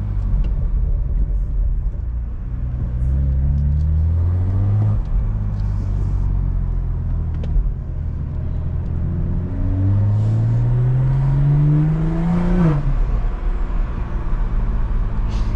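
BMW M340i's turbocharged B58 inline-six accelerating under load. The engine pitch rises briefly about three seconds in, then climbs steadily for about three seconds before dropping sharply at a gear change near the end.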